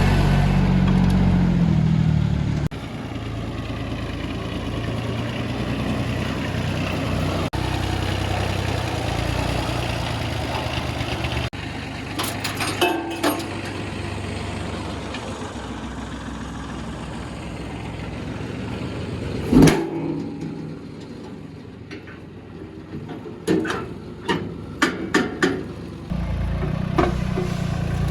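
Small diesel tractor engine running steadily, its level jumping at several abrupt changes. Sharp knocks come in a cluster about twelve seconds in, one loudest knock a little past the middle, and another quick run of knocks near the end.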